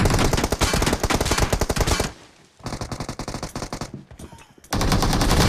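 Automatic gunfire from a video-game shooter, in rapid bursts. A loud burst is followed by a short break about two seconds in, then quieter firing, then another loud burst near the end.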